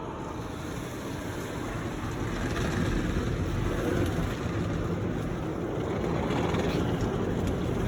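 Automatic car wash working over the car, heard from inside the cabin as a steady rushing noise that grows gradually louder.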